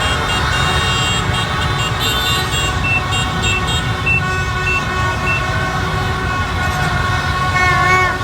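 Dense street traffic with engines running and many vehicle horns honking, some in short repeated toots and others held, as a celebration of a football win.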